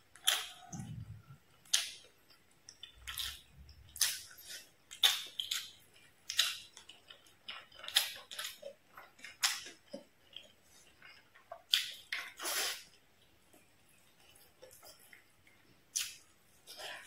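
Close-miked eating sounds from a mouthful of fried fish and rice: irregular wet smacks and clicks of chewing, about one a second, with a pause for a few seconds near the end. There is a low bump about a second in.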